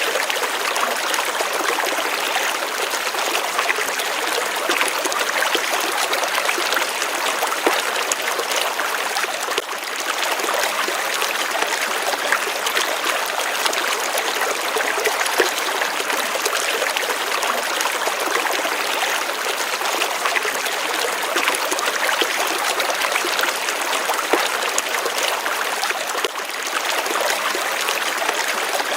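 Running water flowing steadily, a continuous even rush with small splashes and trickles through it.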